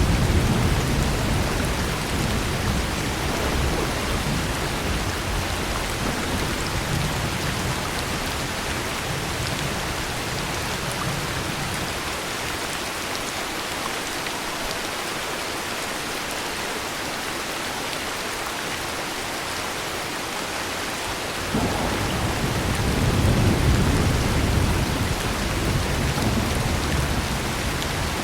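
Steady heavy rain with rolling thunder. A low thunder rumble dies away over the first half. Another begins suddenly about three-quarters of the way through, swells and then eases.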